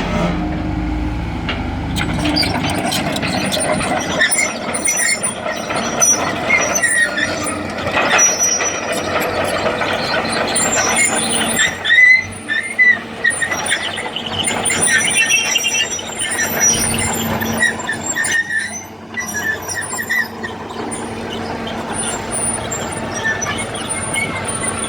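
Heavy machinery at work, an engine running under repeated high, uneven metallic squeals.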